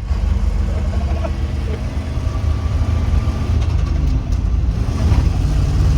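Old three-ton grain/gravel truck's engine running steadily while the truck drives, a low rumble that grows a little louder about five seconds in.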